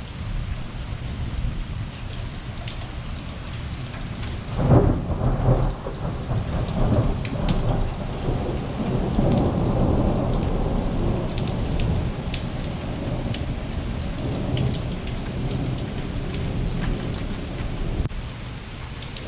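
Heavy rain falling steadily, with a thunderclap about five seconds in, following a lightning flash, that rolls on as a long low rumble before dying back into the rain.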